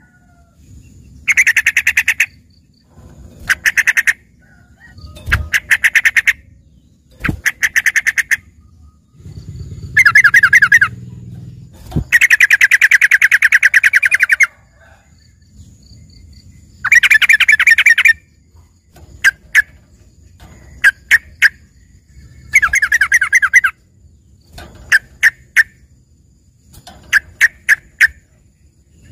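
A trucukan (yellow-vented bulbul) singing a tutored 'isian' song, likened to a green leafbird's. It sings phrases of rapid repeated trilled notes, some short and some over two seconds long, separated by brief pauses. There are a few faint low thuds between phrases.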